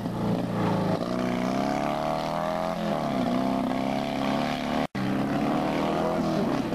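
Fiat 126p rally car's small air-cooled two-cylinder engine revving hard through the corners, its pitch climbing and dropping back several times with gear changes and lifts. The sound breaks off for an instant about five seconds in.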